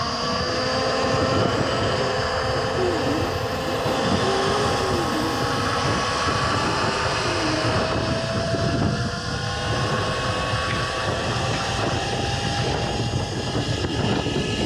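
Surron electric dirt bike motor whining, its tones climbing slowly as the bike gathers speed, over a steady low rumble of wind on the microphone.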